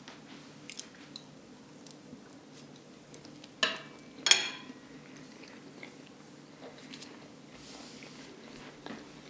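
Someone chewing a bite of chicken burger, with small faint mouth clicks. About three and a half seconds in, a metal fork clinks twice against the plate as it is put down. The second clink is the loudest and rings briefly.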